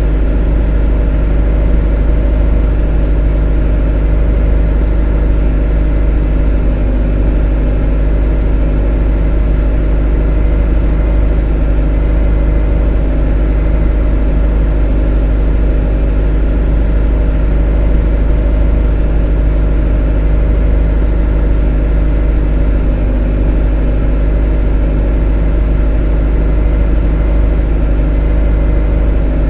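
A motor running steadily at constant speed: a deep, even drone with several steady tones above it.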